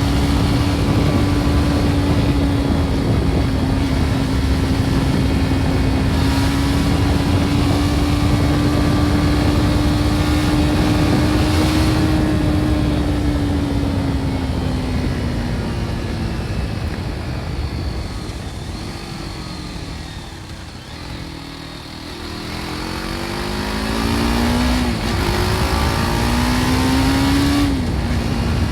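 BMW G310 R's single-cylinder engine on its original exhaust, running steadily under way, then easing off and slowing for several seconds. It then accelerates again, climbing in pitch through two gear changes near the end, with wind noise throughout.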